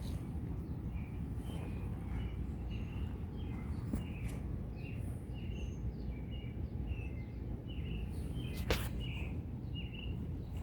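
Small birds chirping repeatedly in short notes over a steady low outdoor rumble, with a single sharp click late on.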